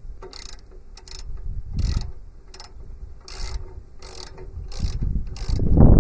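Ratchet wrench clicking in short, evenly spaced strokes, about one every 0.7 s, loosening a sub-frame mounting bolt. A louder low clatter of handling noise sets in near the end.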